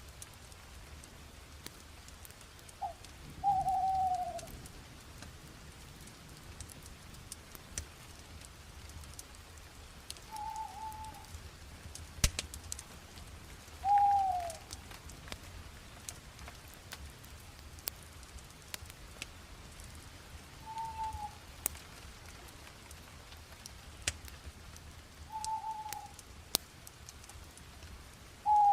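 Wood fire crackling, with scattered sharp pops and snaps over a faint hiss. A bird calls repeatedly, about seven short falling notes a few seconds apart, louder than the fire.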